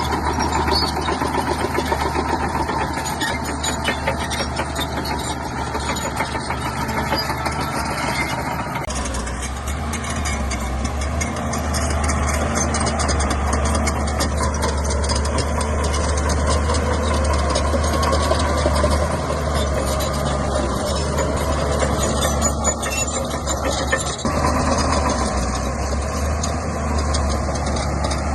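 A Shantui bulldozer's diesel engine running steadily. About nine seconds in, its low note grows stronger.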